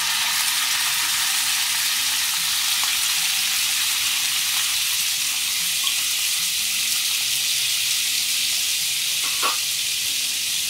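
Raw chicken breast strips frying in hot olive oil in a frying pan: a loud, steady sizzle, with a small pop near the end.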